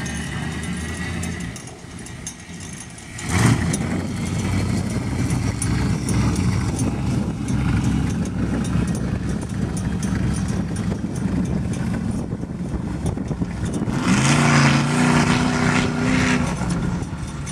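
Dodge Ram mud truck's 360 V8 engine running. About three seconds in it surges suddenly louder and keeps running hard, and near the end it holds a louder, steady drone for a couple of seconds.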